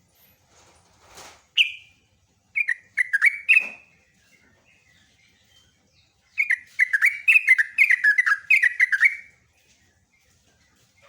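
Yellow-vented bulbul (trucukan) singing: a single note, then a short bubbly phrase, then after a pause a longer rolling phrase of quick, slurred, falling notes.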